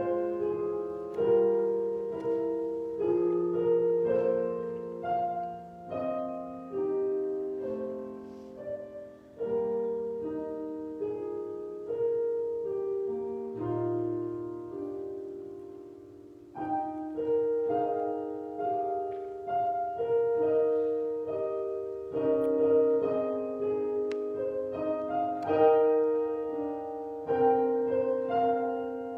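Piano prelude: slow, hymn-like chords, each struck and left to fade. The playing softens until about halfway through, then a louder phrase begins.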